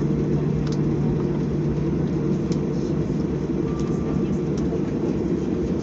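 Steady low rumble inside the cabin of a Bees Airlines Boeing 737-800 just after landing, with a few faint clicks.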